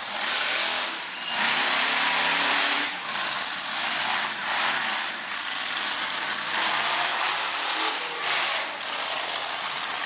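Monster truck engine running hard at high revs. The throttle is briefly lifted and opened again several times, each time a short drop in the noise.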